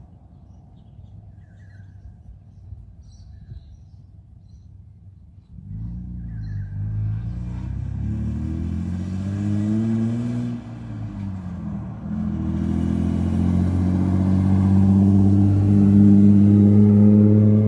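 A low rumble for the first five seconds or so, then a dirt bike engine revs up sharply. Its pitch rises and falls, it eases off briefly, then climbs again and is loudest near the end, as when accelerating hard for a wheelie.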